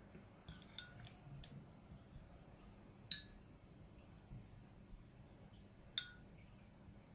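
A few faint clicks, then two short ringing clinks about three seconds apart: painting gear knocking against a porcelain dish.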